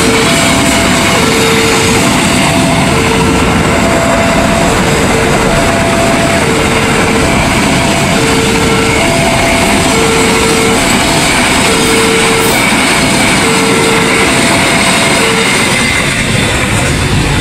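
A train running through a railway level crossing, a loud steady rush of wheels and cars. The crossing's electronic warning alarm sounds over it in an alternating two-tone pattern and stops near the end, as the train noise eases.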